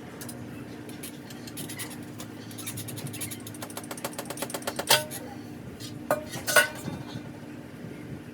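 Hand tools working on a dirt bike's engine: a fast run of clicks, then a few sharp metallic clinks, with a steady low hum throughout.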